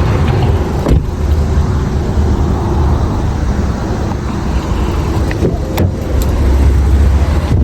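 A car driving, with a steady low rumble of engine and road noise and a couple of faint clicks.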